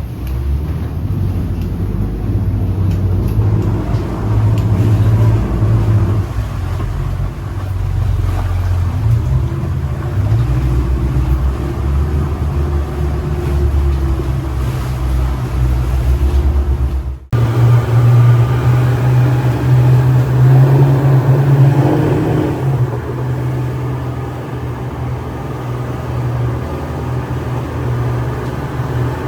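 Speedboat engines running steadily under way, a loud low drone with rushing noise over it. The sound cuts out for an instant about 17 seconds in, then carries on.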